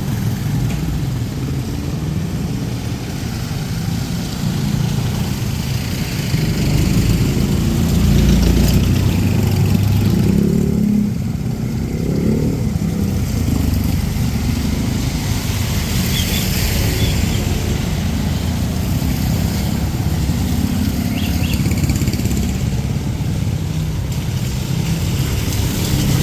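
Street traffic: motorcycles and other motor vehicles running and passing, louder for a few seconds about eight seconds in, with a brief rise and fall in engine pitch just after.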